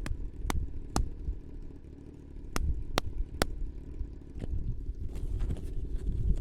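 Aprilia Tuono V4 motorcycle's V4 engine running at idle, a low rumble that swells and dips, with six sharp clicks over it, three in the first second and three more around the middle.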